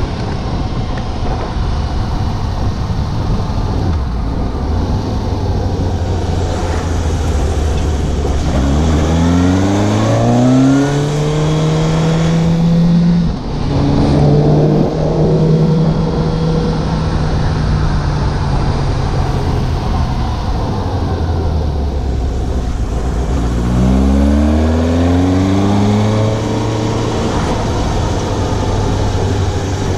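Suzuki GSX750 inline-four motorcycle engine under way: its note climbs hard about a third of the way in, dips briefly at a gearshift, eases off, then climbs again in a second acceleration near the end. Wind rushes over the rider-worn microphone throughout.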